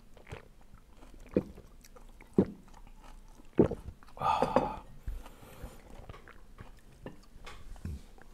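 Close eating sounds: a person chewing and crunching food, with a few sharp clicks about a second apart and a louder noisy burst a little past four seconds in.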